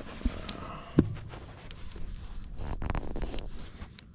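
Handling noises: two sharp knocks in the first second, the second one louder, then a second or so of rustling and scraping.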